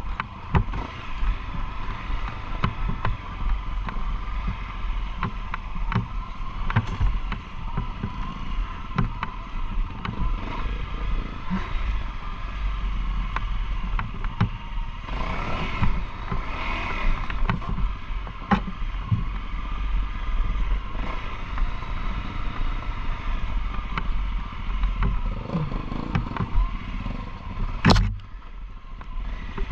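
Enduro motorcycle engine running steadily while riding rough off-road ground, with frequent knocks and clatter from the bumps. A single sharp crack comes near the end.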